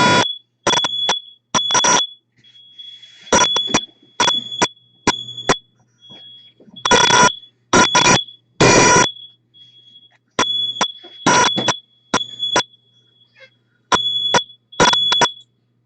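Building fire alarm sounding: a high-pitched beeping tone broken into short, irregular pieces, with loud buzzing blasts over it every second or so.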